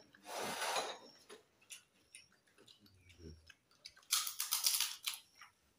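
Crunchy fried food being bitten and chewed close to the microphone: a crackly crunch just after the start and a louder run of crunches about four seconds in.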